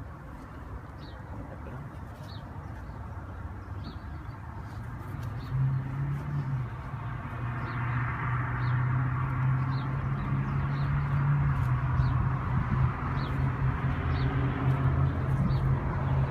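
A bird chirping repeatedly, short high chirps about once a second. A steady low hum comes in about five seconds in and grows louder.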